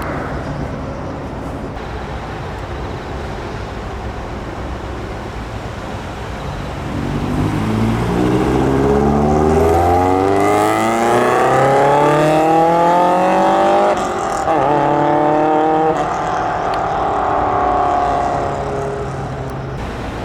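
A car engine running steadily, then revving up hard from about seven seconds in, its pitch climbing for several seconds before dropping suddenly at about fourteen seconds, as at a gear change, and pulling again after.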